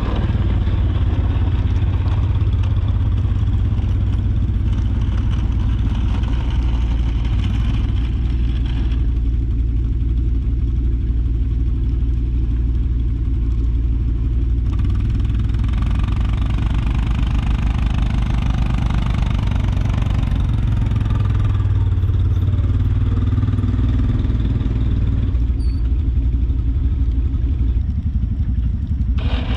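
Jeep engine running with a steady low drone. A hissing noise swells and fades in stretches over it.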